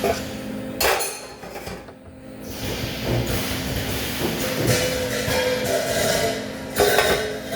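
Metal clanks and knocks over a steady mechanical hum, with two sharper strikes, about a second in and near the end.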